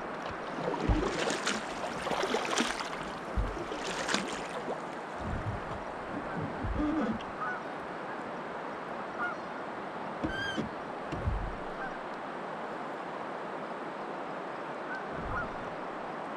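Short bird calls over a steady hiss, with one clearer call about ten seconds in and a few knocks in the first few seconds.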